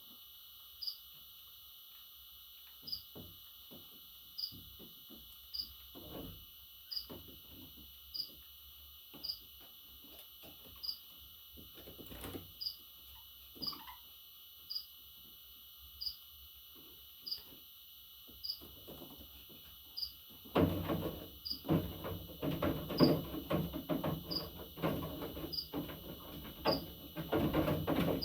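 A steady high trill with a short, high chirp repeating about once a second. About two-thirds of the way through, a run of irregular clicks and rustling starts and grows louder.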